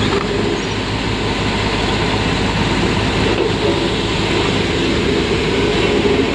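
Heavy diesel engine running steadily under load, a loud continuous rumble with a low engine drone.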